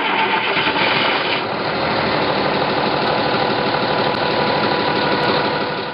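Schooner's inboard engine idling steadily with an even, rapid firing pulse, just started after a head gasket replacement and general overhaul.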